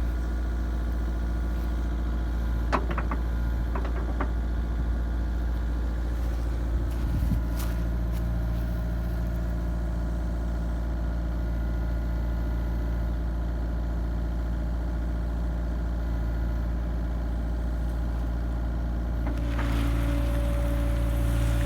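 Kubota KX057-4 mini excavator's diesel engine running steadily while it digs out a ditch, with a few sharp knocks a few seconds in. Near the end it grows louder, with a hiss and a higher whine.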